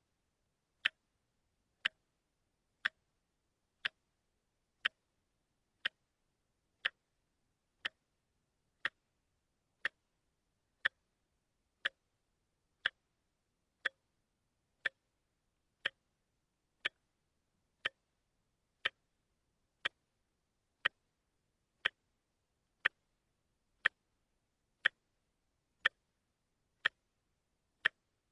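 Watch ticking steadily at one sharp tick per second, with quiet between the ticks, the even one-a-second step of a quartz movement.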